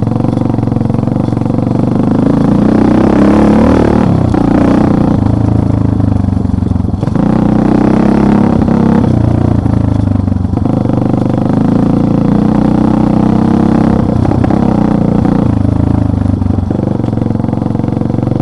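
Motorcycle engine running while riding off-road, its pitch rising and falling several times as the throttle opens and closes.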